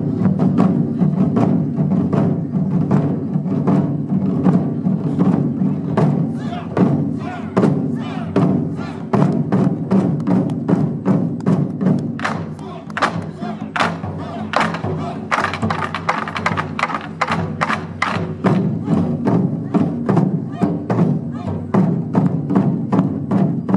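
Ensemble of Japanese taiko drums played in a fast, dense rhythm, with sharp wooden clacks over the drumbeats, thickest in the middle.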